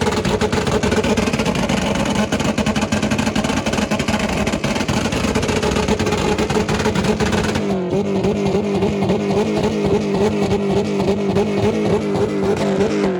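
Car engine held at steady high revs, with a rapid crackle over the note. About eight seconds in the note turns cleaner and more even, still held at the same pitch.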